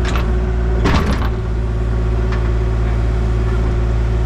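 Excavator engine running steadily, with a short burst of clanks and knocks about a second in as the oil tank is pulled out of the hole.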